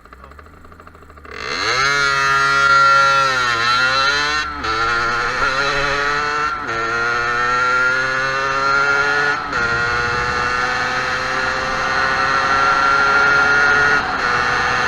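Motorcycle engine accelerating hard through the gears, with wind rush. It comes in suddenly about a second in, and its pitch climbs in each gear and drops back at each shift, about four times.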